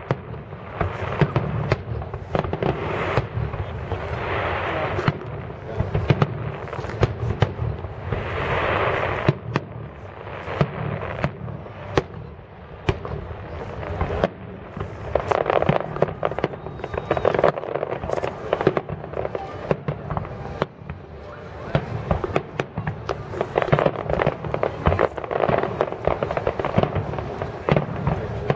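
Fireworks finale barrage: aerial shells bursting in quick, irregular succession, many sharp bangs with no pause between them.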